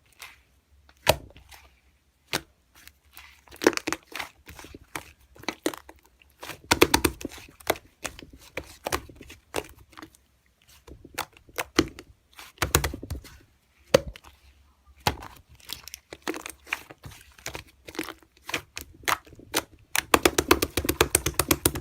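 Irregular sharp clicks and taps, some single and some in quick flurries, with a crinkly scraping between them.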